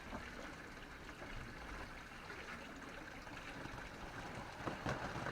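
Ground fountain firework spraying sparks with a steady, quiet hiss.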